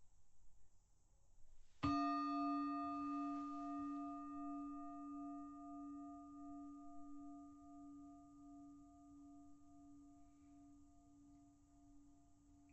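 A singing bowl struck once about two seconds in, then ringing on and slowly fading, with one overtone wavering in a steady pulse. It is a meditation bell sounded to mark the start of the guided practice.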